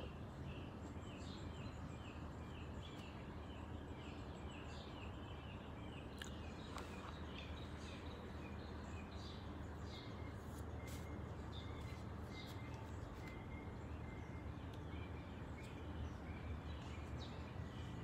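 Birds chirping in the trees: a short chirp repeated about twice a second for the first several seconds, then scattered chirps and ticks, over a steady low rumble of outdoor background noise.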